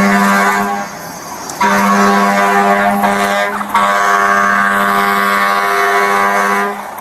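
An air horn sounding in long, steady, loud blasts at one unchanging low pitch: one blast ends about a second in, a second follows until about halfway, and a third, after a very short break, runs until near the end.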